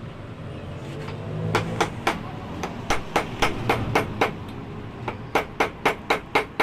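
Hammer blows on metal, quick and evenly spaced at about four a second, in two runs with a pause of about a second between them, typical of hammering on a motorcycle shock absorber during repair.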